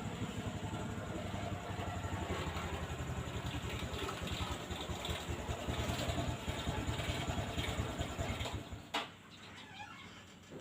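Yamaha F1ZR two-stroke motorcycle engine running through an aftermarket AHM exhaust, with a steady pulsing exhaust note. It stops about nine seconds in with a sharp click, and the sound drops away.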